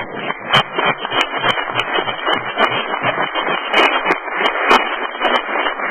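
Crowd applauding: many hands clapping at once, a dense, irregular patter.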